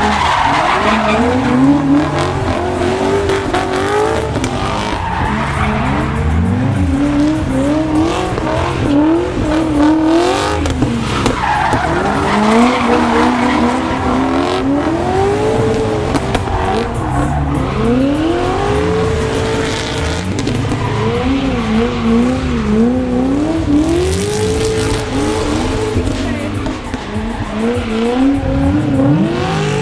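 Drift cars, a Lexus V8 among them, sliding on track, with the engines revving up and falling back again and again and the tyres squealing.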